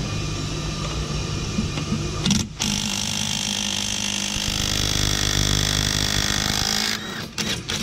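Ammco 4000 brake lathe running steadily while it skims a brake rotor, a constant machine hum with a steady whine over it. It stops briefly about two and a half seconds in, and breaks up again near the end.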